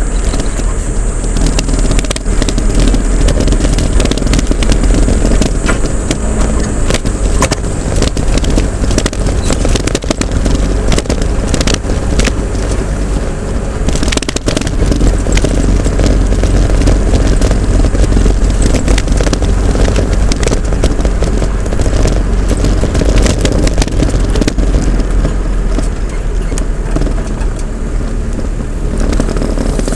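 Vehicle engine running steadily while travelling along a road, with a loud low rumble and many short crackling knocks and rattles throughout.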